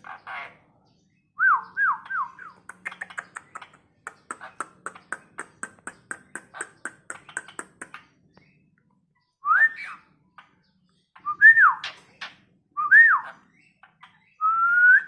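Asian pied starling (jalak suren) whistling and chattering. A few quick slurred whistles come first, then a run of rapid clicking chatter lasting several seconds. Separate whistles that rise and fall follow, and the last is a longer rising whistle near the end.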